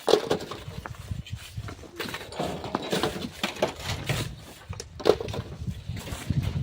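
Hand tools digging and scraping sand and stones: irregular knocks and scrapes, several a second.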